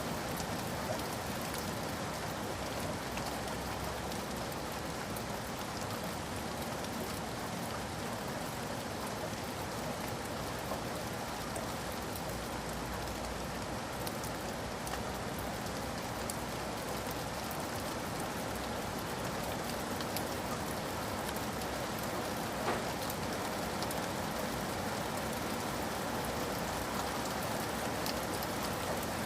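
Steady rain falling on a surface, an even hiss with many small drop taps and one slightly louder tap about three quarters of the way through.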